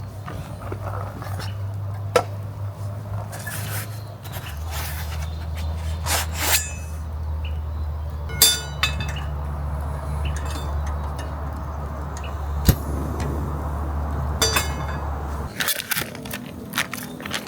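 Scattered clinks and scrapes of tableware or camp cookware being handled, over a low steady hum that shifts about four seconds in and stops near the end.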